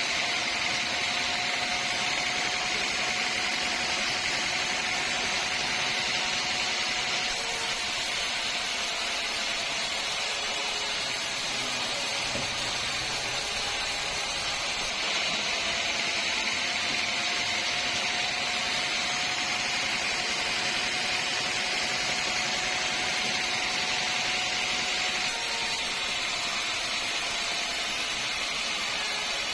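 Sawmill saw running steadily, a high hiss with a faint steady whine underneath.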